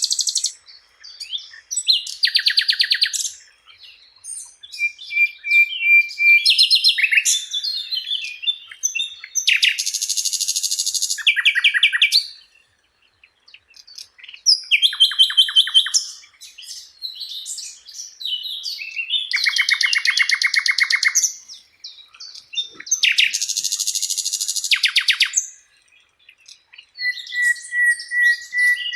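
Sikatan Londo flycatcher singing: a series of short, varied phrases of rapid trills and chattering notes broken by brief pauses, with a held whistled note about five seconds in and again near the end.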